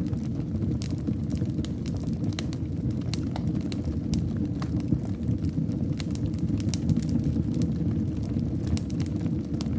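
Wood fire in a fireplace crackling: frequent sharp irregular pops and snaps over a steady low rumble of the burning flames.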